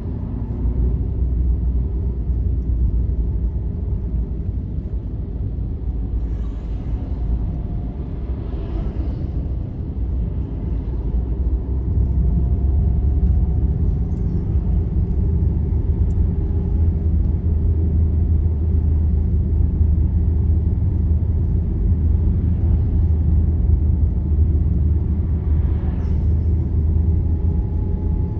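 Steady low rumble of a road vehicle travelling along a highway, heard from inside the cabin: engine and tyre noise, growing slightly louder about twelve seconds in.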